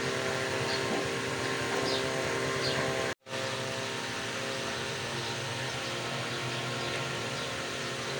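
Steady machine hum made of several steady tones under a light hiss, cutting out completely for a moment about three seconds in.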